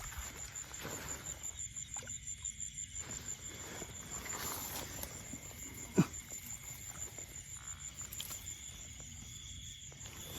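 Insects trilling steadily in a fast, high-pitched, pulsing chorus, with light rustling and scuffing throughout and one sharp knock about six seconds in.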